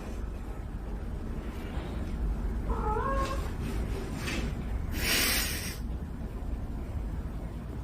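A domestic cat meows once, a short wavering call about three seconds in, over a steady low hum. A brief hissing burst of noise comes about two seconds later.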